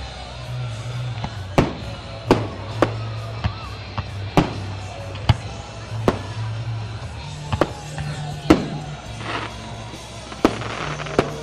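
Fireworks show: about a dozen sharp aerial shell bangs at irregular intervals, over music played for the show.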